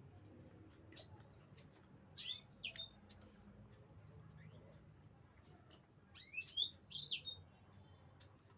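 A small bird chirping in two short bursts of quick, sweeping high notes, one about two seconds in and a longer one around six to seven seconds in. Faint scattered clicks sound between them.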